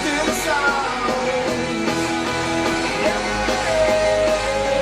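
A home-recorded rock song playing: a sung melody over guitars and drums. The drums sound poorly recorded, with toms that are too high-pitched and a snare that doesn't sound good.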